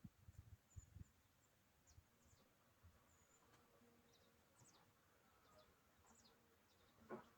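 Near silence with faint, short, high bird chirps scattered throughout, a few soft low thumps in the first second, and a sharper knock right at the end.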